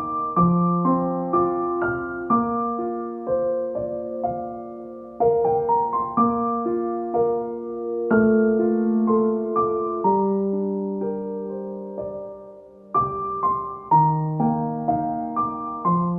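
Soft background piano music: slow arpeggiated notes ringing and overlapping.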